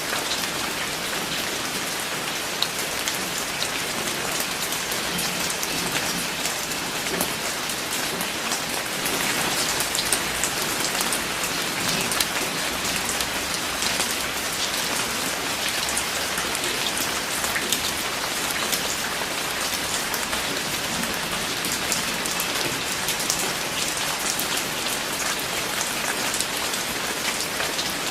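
Steady rain falling on a surface, a dense even hiss dotted with many small drop ticks.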